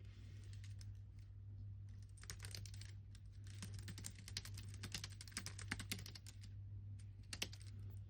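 Typing on a computer keyboard: runs of quick keystrokes, densest from about two to six and a half seconds in, with a last keystroke or two near the end. A steady low hum runs underneath.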